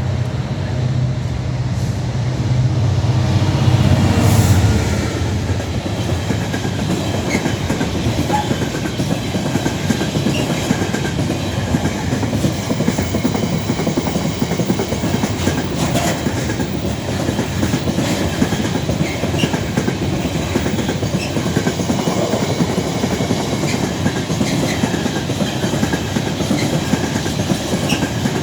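A Class 66 diesel freight locomotive passes close by, its engine note loudest about four seconds in and then falling away. A long train of container wagons follows, rolling past with steady wheel noise and clickety-clack over the rail joints.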